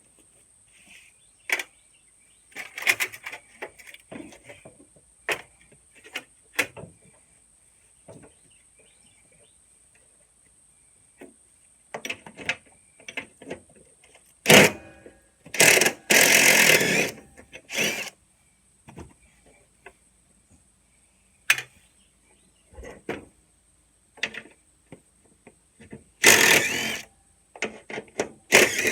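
Scattered clicks, knocks and clanks of hand tools and metal parts being handled, with two louder noisy stretches of a second or two, about halfway through and near the end.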